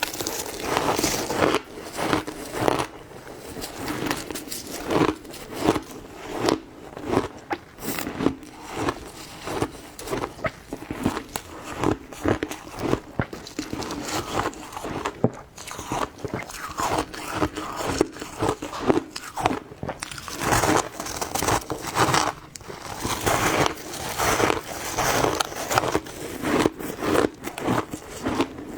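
A person biting and chewing ice, a steady run of irregular sharp crunches and crackles one after another.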